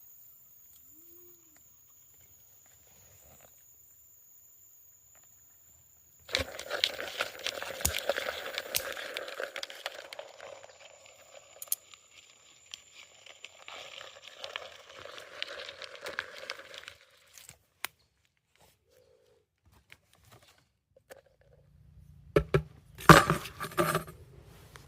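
Crinkling, crackling rustle with sharp clicks, starting about six seconds in and going on for about eleven seconds; after a quiet gap, a short run of loud sharp cracks near the end.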